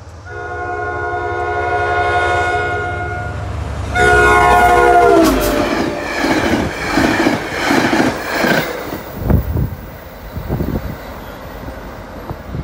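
A passenger train's locomotive air horn sounds a long chord. A second blast follows and drops in pitch as the locomotive passes, about five seconds in. Then the rumble and repeated clacks of the coaches' wheels on the rails follow, thinning out to a few single knocks near the end.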